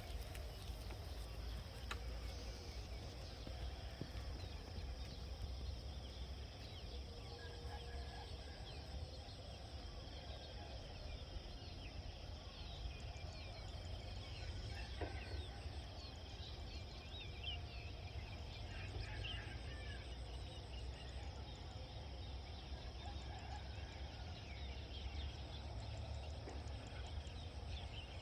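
Rural outdoor ambience: scattered short calls of farmyard fowl over a steady low rumble and a steady high insect-like drone.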